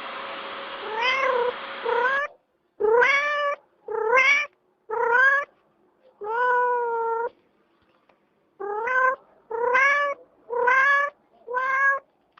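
A cat meowing again and again: about ten short meows that rise in pitch, with one longer, drawn-out meow near the middle and a brief pause after it. A steady background hiss stops about two seconds in.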